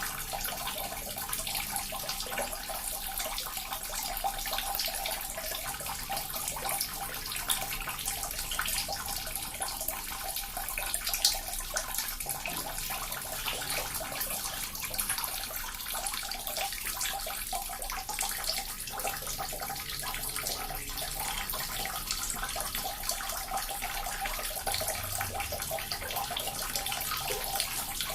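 Small water fountain running, with a steady trickle and splash of falling water and many little droplet splashes.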